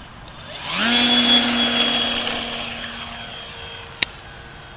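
Electric motor and propeller of a Parkzone T-28 Trojan RC plane spooling up to a steady whine under power, then fading away. A single sharp click comes about four seconds in.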